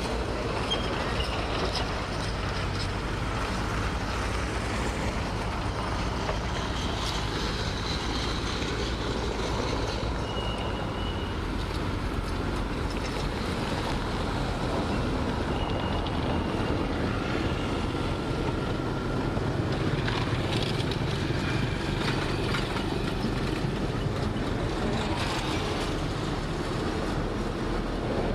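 Heavy earthmoving machinery's diesel engines running steadily, with a few brief high squeals partway through.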